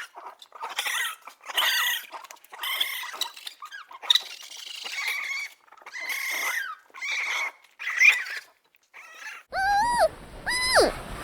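A small animal's series of short, high-pitched squeaky cries, about ten of them, each bending in pitch. About nine and a half seconds in, louder honking calls that rise and fall take over.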